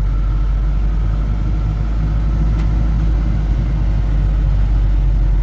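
Truck's diesel engine running steadily at low speed with a deep, even rumble.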